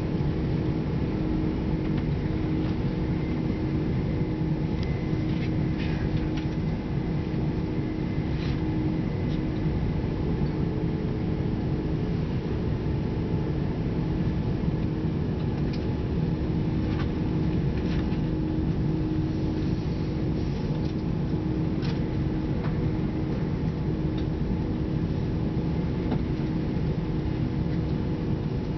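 Interior running noise of a Chiltern Railways Class 168 diesel multiple unit heard from a passenger seat: a steady low rumble with a constant hum, and a few sharp clicks scattered through it.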